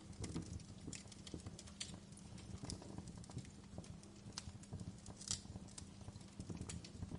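Wood fire crackling: irregular sharp pops and snaps over a low rumble of burning logs, with one louder pop about five seconds in.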